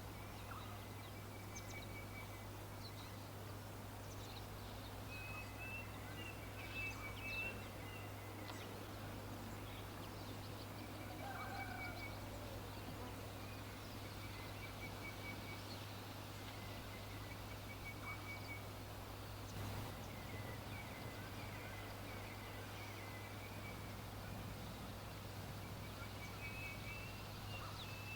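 Birds calling: short, rapid trills repeat every couple of seconds, with a lower call about twelve seconds in, over a steady low hum.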